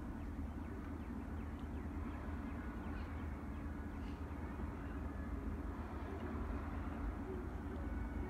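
Faint bird chirps over a steady low outdoor rumble.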